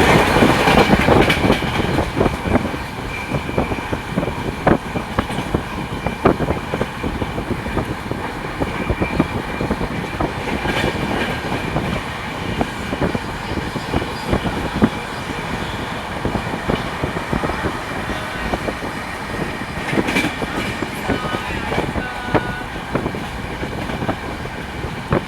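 Train running along the track: a steady rumble with the irregular clatter of wheels over rail joints, loudest in the first couple of seconds.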